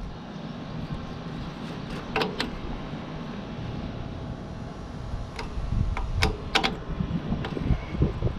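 Metal hydraulic hose fittings and caps being handled: a few sharp clinks, a pair about two seconds in and several more near six seconds, over low handling rumble.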